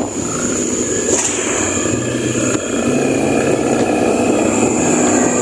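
A motor vehicle on the move: its engine runs under a steady rushing road noise, its pitch creeping slowly up as it gathers speed.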